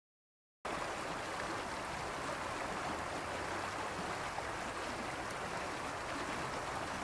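Silent for about the first half second, then the steady rush of a stream's running water.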